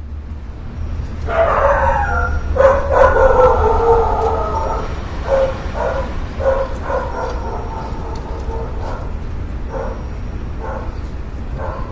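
A dog howling with a long falling cry, then barking and yelping in short repeated barks, over a steady low drone.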